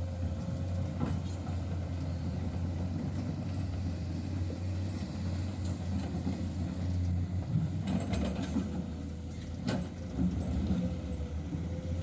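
Heavy diesel engine running steadily at idle, with a few sharp knocks about a second in and again around eight and ten seconds.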